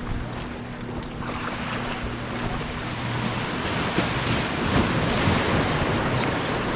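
Wind buffeting the microphone over surf, an even rushing noise that grows louder after about a second. A low steady hum underneath fades out about three seconds in.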